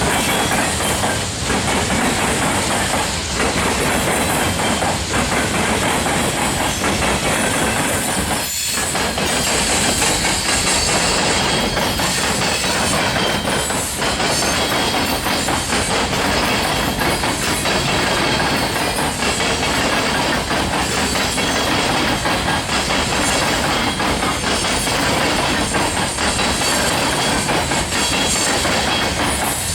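Cars of a loaded rock train rolling steadily past, steel wheels running on the rail, with one brief dip in the noise about eight and a half seconds in.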